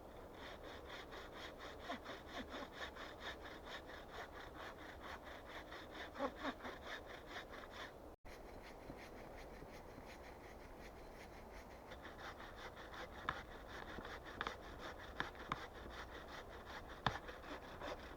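Hand saw cutting through wood in quick, even back-and-forth strokes. The sawing pauses for a few seconds midway, then resumes, with a few sharp knocks near the end.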